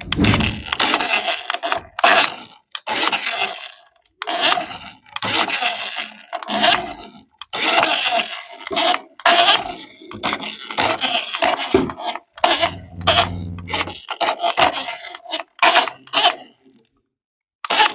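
Toy packaging and plastic parts being handled: repeated bursts of crinkling and scraping with short pauses. A brief low buzz comes in about thirteen seconds in.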